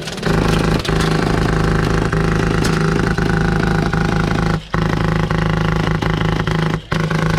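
PolarStar HPA-powered airsoft M249 light machine gun firing long full-auto bursts, a steady loud buzz broken by short pauses about four and a half and seven seconds in.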